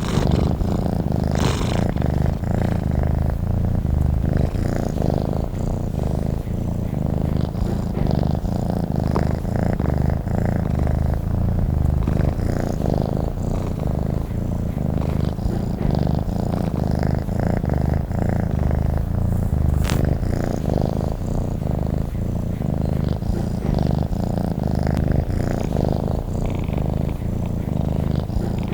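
Domestic cat purring steadily and continuously, a low rhythmic rumble with no break.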